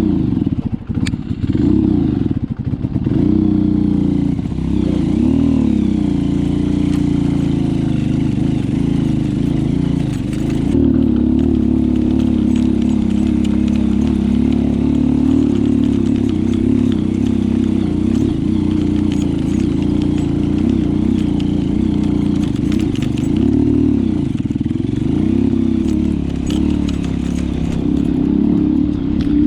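Small off-road motorcycle engine running under load on a steep climb, its revs rising and falling again and again with the throttle. High in the mountains, the rider says the motor is screaming for air.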